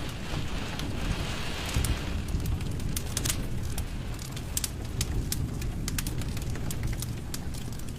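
Wood fire crackling, with frequent sharp pops and snaps over a steady low rumble of flames, and a soft hiss during the first couple of seconds.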